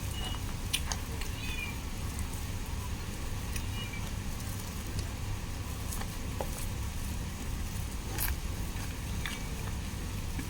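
A cat meows faintly a few times in short calls over a steady low background rumble, with a few light clicks.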